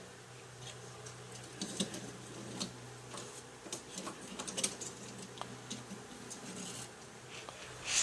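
Light, scattered clicks and taps of small plastic toy vehicles and model pieces being handled and set down, over a faint steady hum.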